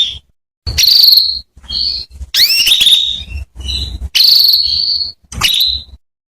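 Female canary calling over and over: short rising whistled chirps mixed with brief level trills, about seven calls with short gaps between them. It is the call used as a lure to set a male canary singing.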